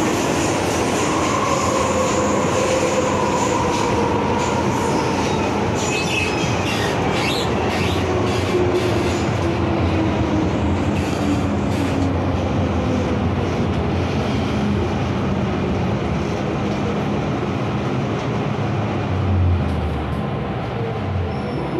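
MTR M-Train electric multiple unit heard from inside the car, running on the rails with a motor whine that slowly falls in pitch as the train slows, and some wheel or brake squeal. The loudness dips near the end.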